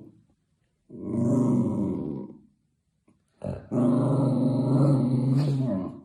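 A dog growling in two long, drawn-out growls, the second longer and running to the end.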